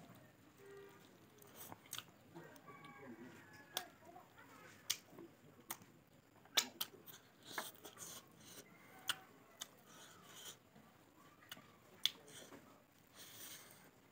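A person chewing a mouthful of rice and meat eaten by hand, with wet lip-smacks and sharp mouth clicks scattered through. There are also soft sounds of fingers mixing rice on a metal plate.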